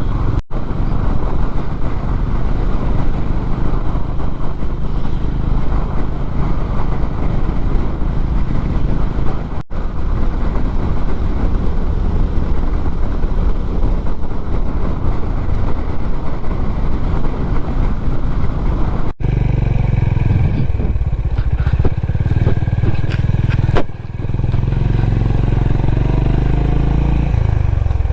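Honda H'Ness CB350 single-cylinder engine running steadily while riding along the highway, under a loud rush of wind and road noise. The sound breaks off for an instant a few times, and from about two-thirds through the low rumble grows heavier.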